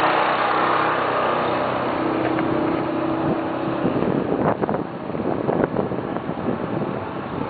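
Car engine running steadily while the car drives slowly along the track, with wind buffeting the microphone in gusts from about four seconds in.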